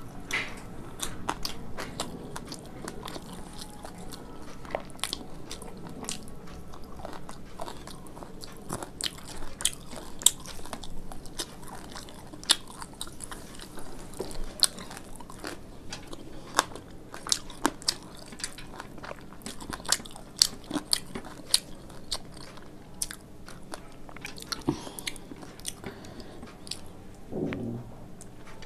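Close-miked chewing and mouth sounds of a person eating, with irregular sharp crunches and wet smacks.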